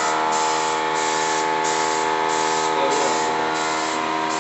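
Spray painting: a spray hissing in short repeated passes, breaking off briefly about every three-quarters of a second, over the steady hum of a motor running.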